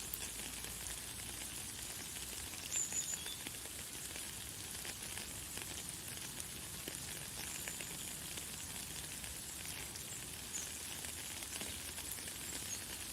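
Light, fine rain falling steadily: a soft hiss of many tiny drop ticks. A few short, high bird chirps come through it, the loudest about three seconds in.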